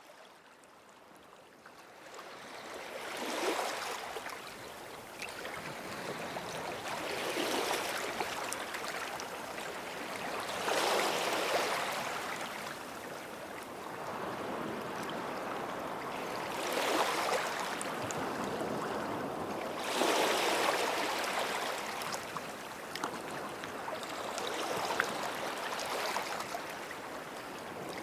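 Small sea waves washing onto a sandy beach at the water's edge, each wash swelling up and hissing away, about six in all, every three to five seconds. The sound fades in over the first few seconds.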